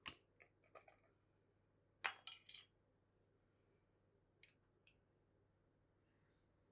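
Kitchen utensils clinking in a few short clusters: a clatter at the start, a quick run of three clinks about two seconds in, then two single clicks.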